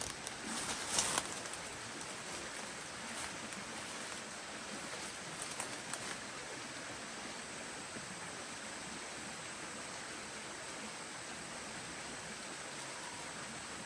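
Steady, even outdoor hiss, like running water or rain, with a few brief rustles or crackles about a second in and again around five to six seconds in.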